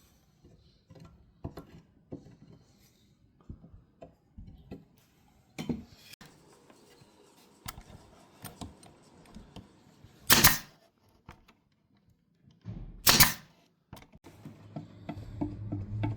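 Scattered light clicks and taps of handwork, with two short, loud bursts of noise about ten and thirteen seconds in.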